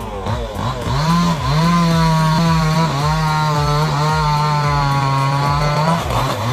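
Two-stroke chainsaw revving up and then running at steady full throttle, easing off and revving back up briefly about six seconds in.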